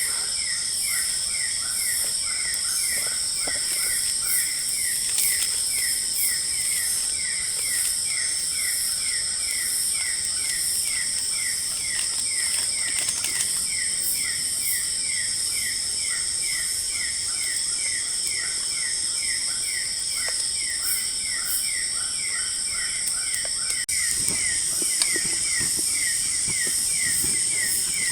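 Night forest insect chorus: a steady high-pitched drone layered with a rapid, even chirp repeating about three times a second.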